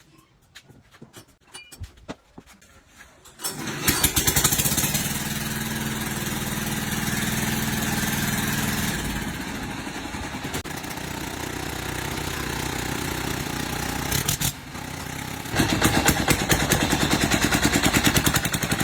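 An engine catches about four seconds in after a few quiet clicks, then runs loudly and steadily. Near the end it changes to a fast, even pulsing.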